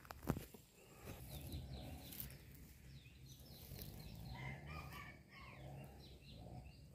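Birds chirping: many short, quick falling chirps in a loose series, with a single sharp click about a third of a second in.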